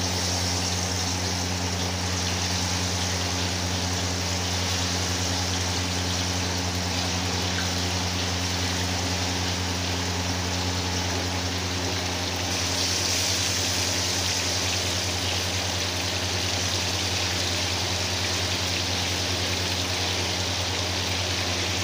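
Chicken pieces sizzling as they shallow-fry in hot oil in a frying pan, a steady hiss that gets brighter a little past halfway, over a steady low hum.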